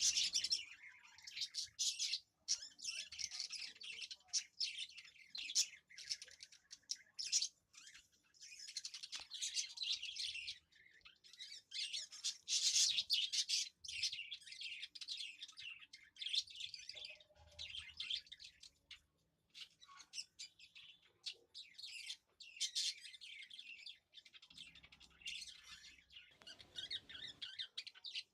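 Small birds chirping busily and continuously, many quick high-pitched chirps overlapping.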